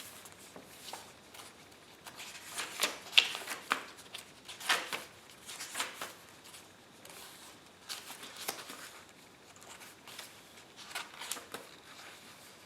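Paper rustling and crinkling in short, irregular spells as the pages and paper tags of a handmade journal are handled and turned.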